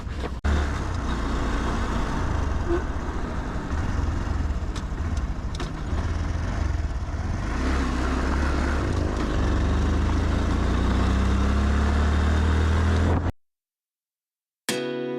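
Motorcycle being ridden, with heavy wind noise on the microphone. The engine note climbs over the last few seconds before the sound cuts off abruptly.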